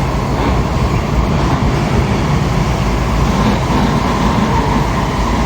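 Kawasaki 7000-series Metrorail car heard from inside while running: a loud, steady rumble and rush of wheels on track, with a steady whine held throughout.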